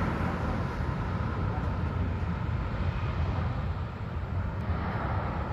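Steady low rumble of a jet airliner's engines as it rolls out on the runway just after landing, heard from a distance outdoors.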